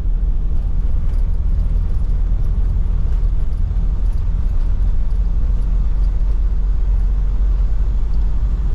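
Steady low rumble of a moving road vehicle: engine and road noise, with no distinct events.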